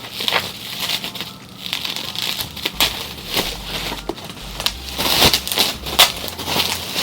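Plastic packaging crinkling and rustling in hand, with irregular light clicks and taps, as a package is unwrapped.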